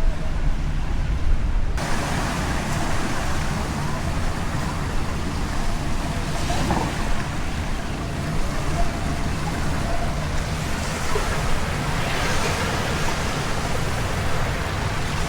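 Steady traffic noise of passing road vehicles, with a low rumble underneath and a hiss that comes in about two seconds in.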